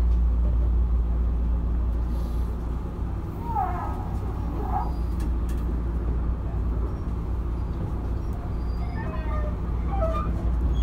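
Tobu 9050 series electric train car standing at a station: a steady low hum from its onboard equipment, with no motor or wheel noise.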